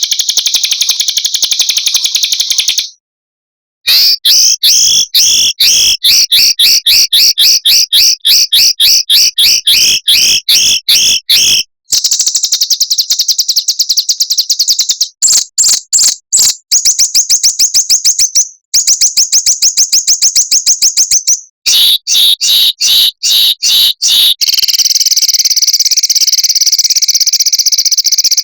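Edited bird-training recording of small songbirds. It is made of high-pitched fast trills and runs of rapid, sharp repeated notes, in several spliced segments separated by brief silent gaps. It ends in a long continuous buzzy trill.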